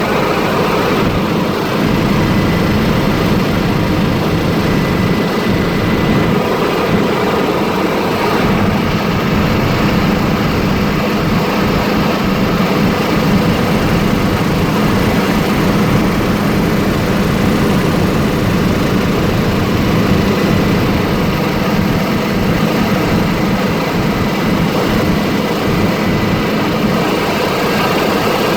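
Helicopter engine and rotor running steadily: a loud, even drone with no change.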